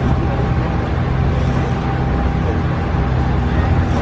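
An engine running steadily: a low, even drone with a faint steady whine above it.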